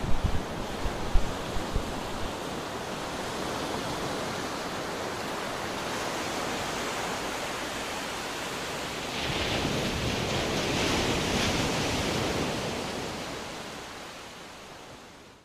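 Small waves washing on a beach, a steady hiss with wind rumbling on the microphone in the first couple of seconds. It swells about nine seconds in, then fades out.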